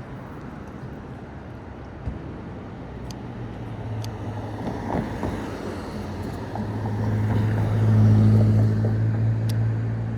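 A motor vehicle's engine humming low and steady, growing louder to a peak about eight seconds in and then easing off, over street noise.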